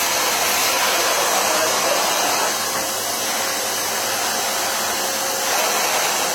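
A 2000-watt canister vacuum cleaner for carpets and upholstery running steadily at full suction. It makes an even, airy rush with a faint steady hum beneath it.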